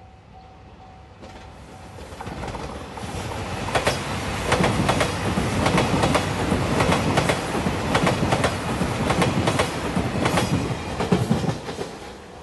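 A level-crossing warning bell rings in short even strokes. A JR Shikoku 2700 series diesel multiple unit then swells in and passes, its wheels clicking rhythmically over the rail joints, and fades near the end.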